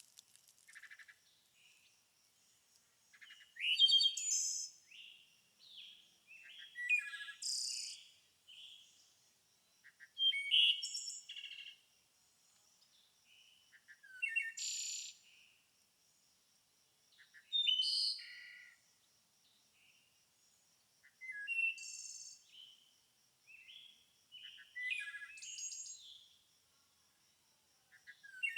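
A songbird singing short, varied, high-pitched phrases, about one every three to four seconds.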